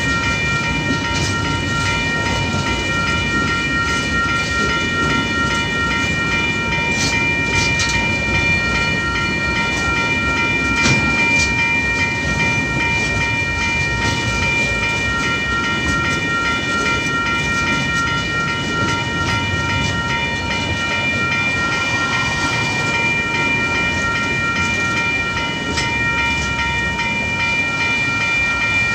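Container wagons of a freight train rolling through a level crossing, wheels rumbling and clacking over the rails with a few sharper clanks. The crossing's warning bell rings throughout in a fast, even pulse.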